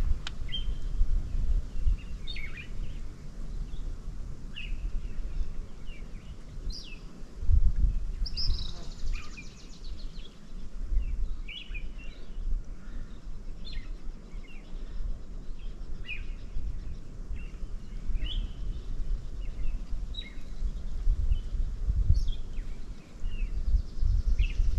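Birds calling, many short high chirps scattered throughout, over a low, uneven rumble that is the loudest part.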